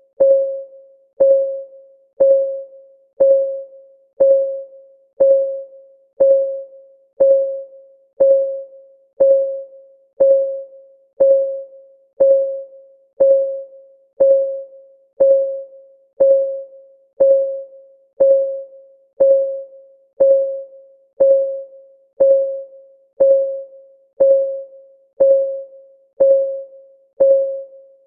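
Clock ticking sound effect, one tick a second, each tick a short pitched click that dies away quickly.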